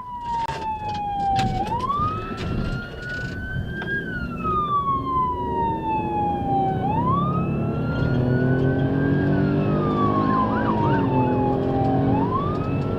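Police car siren in a slow wail, rising and falling about every five seconds, over a vehicle's engine and road noise. The engine note climbs in pitch in the second half as the vehicle speeds up in pursuit.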